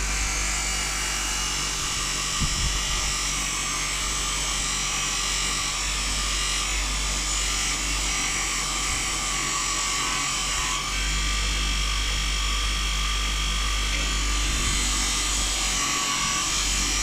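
Small electric polishing wheel with a cloth mop disc running steadily as a metal bolt is buffed with aluminium polish; its tone shifts a little about eleven seconds in.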